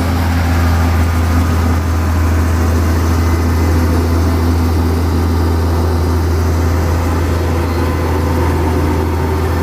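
Engine of a vibratory road roller (a 'setrika bumi' compactor) running steadily with a deep, even drone.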